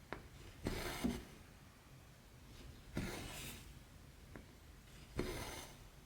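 Embroidery thread being drawn through cross-stitch fabric: three short rasping swishes about two seconds apart, with a faint tick or two as the needle pierces the cloth.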